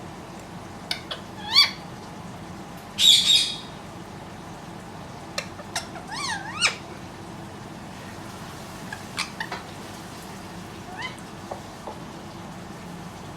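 Indian ringneck parrot calling in short, scattered squawks and chirps, several sweeping up in pitch, with one louder harsh screech about three seconds in and a few sharp clicks between calls.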